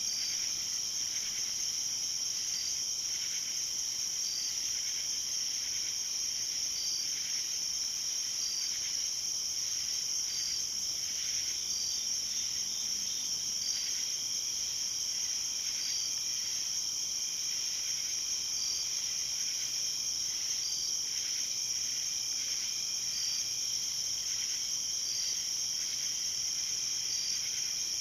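Night insect chorus: a dense, steady high-pitched trill, with fainter steady tones beneath it and a separate short chirp repeating about every two seconds.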